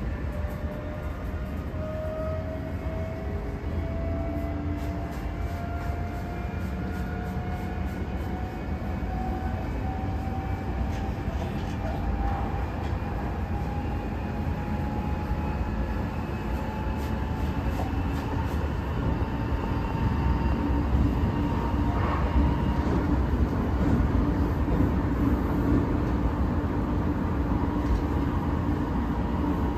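Odakyu 3000 series train, set 3655F, running as heard from inside the passenger car, fitted with replacement totally enclosed traction motors. A whine rises slowly and steadily in pitch as the train gathers speed, over the rumble of the wheels on the rails. The sound grows louder toward the end.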